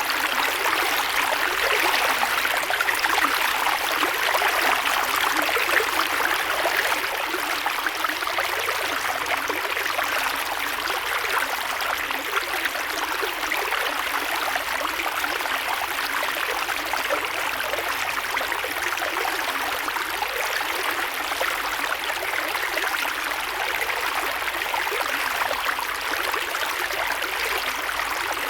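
Creek water flowing steadily over stones, a continuous rushing and babbling with no pauses.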